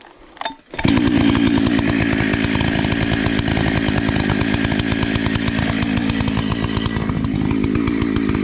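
Husqvarna 288 two-stroke chainsaw comes in suddenly about a second in and runs steadily, with a slight dip and rise in engine speed near the end.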